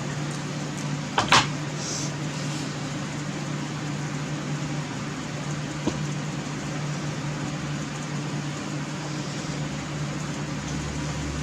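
Steady low mechanical hum with an even hiss, like a running fan, broken by a sharp click about a second in and a fainter click near the middle.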